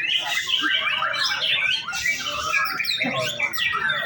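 Several caged white-rumped shamas (murai batu) singing at once in a practice song contest. It is a dense, unbroken tangle of overlapping whistles and chirps, rising and falling in pitch.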